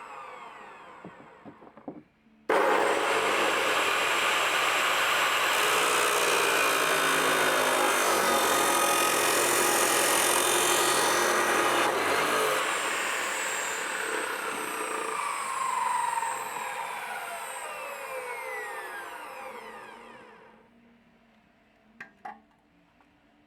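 A power tool starts abruptly about two and a half seconds in and runs hard for about ten seconds. It then winds down with falling pitch until it stops a few seconds before the end. A couple of short clicks follow.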